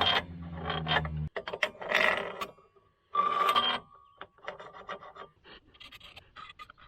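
Metal parts being handled: irregular clicks and short scrapes of sheet metal and tools. A low steady hum cuts off about a second in.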